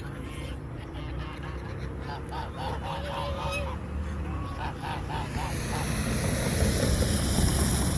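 A flock of geese honking, a run of short repeated calls. Over the last few seconds a steady rushing noise grows louder beneath them.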